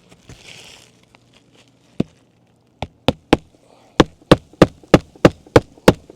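Hammer driving roofing nails through asphalt shingles: a single blow, a quick run of three, then seven steady blows at about three a second. A brief soft rustle comes just before them.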